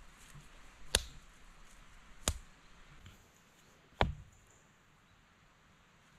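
Stones knocking against other stones as they are set in place by hand: three sharp clacks over about three seconds, the last followed by a brief dull thud.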